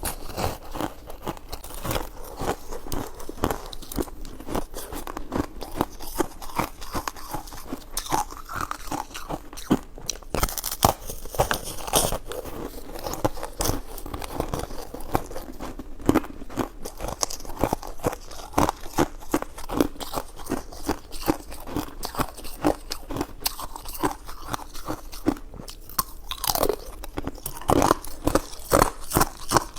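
A person chewing and biting food close to the microphone: a steady run of wet, crunchy mouth clicks and smacks.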